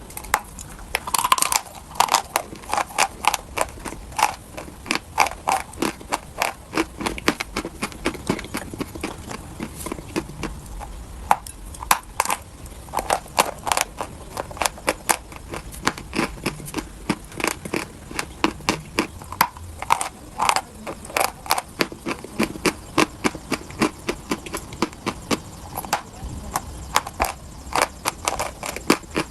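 Dry chalk crunching and crumbling: a long run of sharp, irregular crunches and cracks, often several a second with short pauses between.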